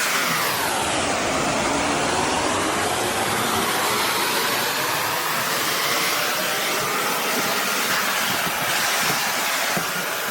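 Shark Navigator Lift-Away NV360 upright vacuum running with a steady loud rush of air and motor whine; the whine dips in pitch about a second in and climbs back over the next couple of seconds.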